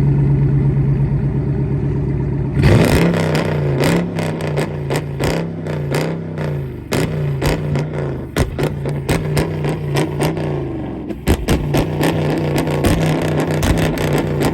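2017 Dodge Charger Daytona R/T's 5.7 Hemi V8, running with no cats and its resonator and muffler deleted, idles with a deep steady drone, then about two and a half seconds in is revved hard in repeated blips with sharp crackles from the exhaust, briefly easing off near eleven seconds before revving again.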